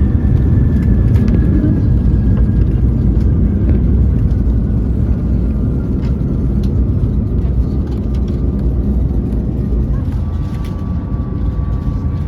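Steady low rumble inside the cabin of an Airbus A220-300 on the ground after landing, its engines and wheels running, with a faint high whine slowly falling in pitch and a few light clicks.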